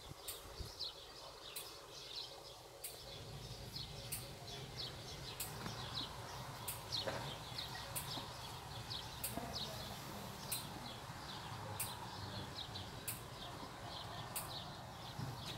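Small birds chirping in the background, many short falling notes a few each second, with a very high faint tick repeating about every second and a bit. A low rumble comes in about three seconds in.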